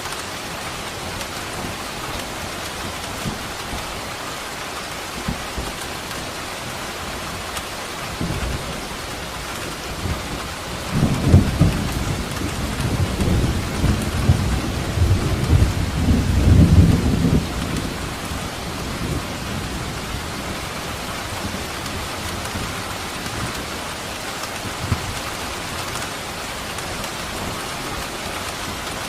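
Steady heavy rain falling, with a roll of thunder rumbling through the middle, loudest a little before and after the halfway point, then fading back to the rain alone.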